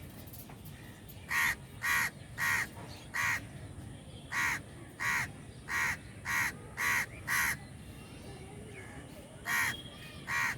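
Crows cawing: a run of four harsh caws, then a quicker run of six, then a pause and two more near the end, over a steady low background rumble.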